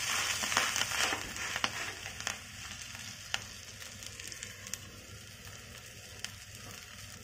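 Pumpkin gharga dough sizzling in a little hot oil in a nonstick frying pan, with scattered crackles. It is loudest as the dough goes in and dies down steadily over a few seconds.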